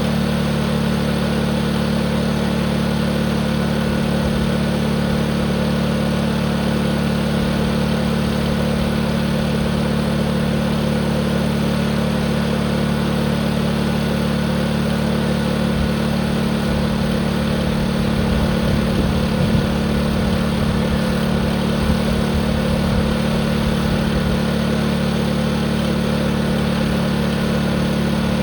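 Tractor engine running steadily at a constant speed, with no change in pitch or level.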